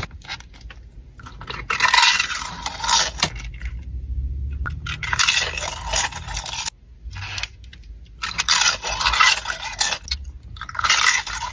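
Close-up crunchy chewing and biting of food, in several crackly bursts of one to two seconds each.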